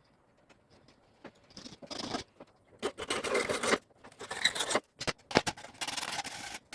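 Irregular scraping and rustling in short bursts with a few sharp clicks, faint at first and louder in the second half.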